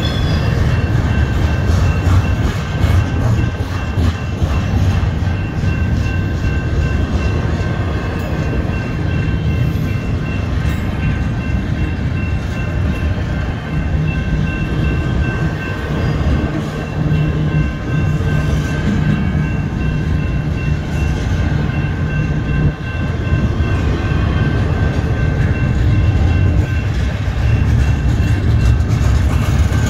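Double-stack intermodal freight cars rolling past: a steady rumble and rattle of wheels on rail, with the grade crossing's warning bell ringing in a quick even pulse above it.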